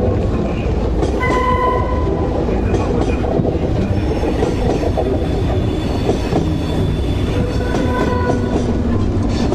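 A moving train: a steady, loud rumble and rattle of wheels on the track, with brief high-pitched tones about a second in and again near the end.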